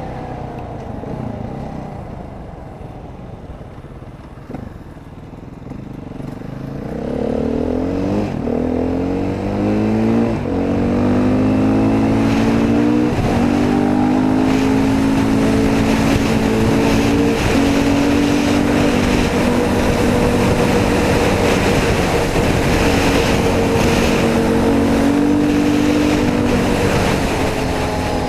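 Dirt bike engine running at low revs, then from about seven seconds in revving up through several gear shifts and holding steady at high revs for the rest.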